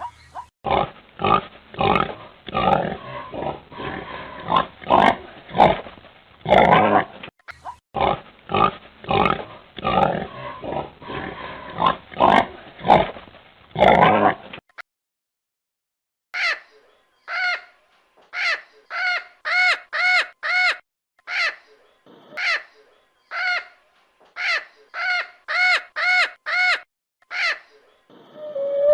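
Two animal recordings in turn: first a long run of rough, noisy calls, then after a brief silence a different animal's series of short, clear pitched calls, about two a second.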